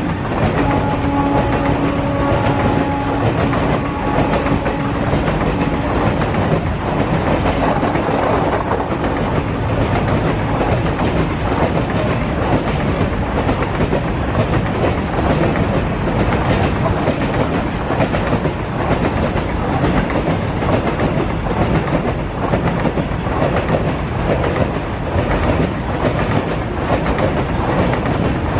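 Indian Railways train running past close by, its wheels clattering steadily over the rail joints. A locomotive horn sounds one steady chord at the start and dies away about five seconds in.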